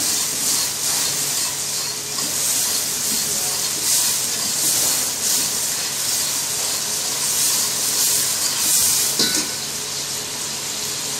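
Julienned mushrooms sizzling over high heat in a steel pot while a wire whisk stirs them, the sizzle swelling and fading with the strokes. It eases a little for the last couple of seconds.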